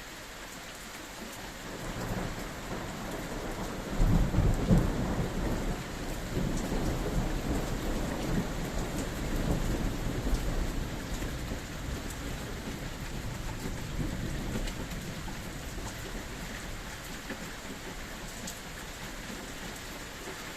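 Steady rain falling, with a long roll of thunder that builds about two seconds in, is loudest a few seconds later, then rumbles on and slowly fades.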